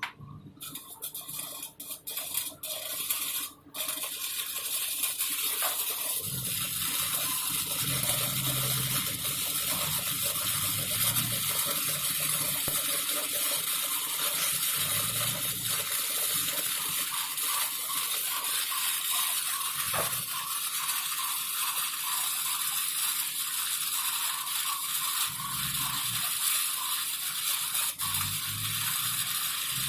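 Shielded metal arc (stick) welding on carbon steel pipe with an E6011 electrode: a few short crackling strikes in the first seconds as the arc is started, then a steady crackling arc as the root pass is run.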